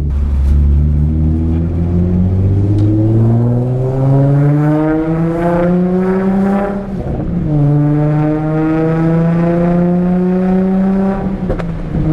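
Car engine pulling under acceleration: its pitch climbs steadily for about seven seconds, drops sharply at a gear change, then climbs again through the next gear.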